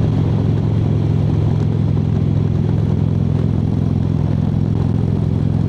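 Harley-Davidson V-twin motorcycle engine and exhaust running steadily at cruising speed.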